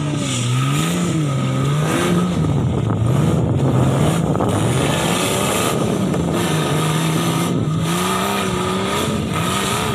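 Off-road buggy engine revving up and down over and over as the vehicle is driven hard over dirt mounds and across the field.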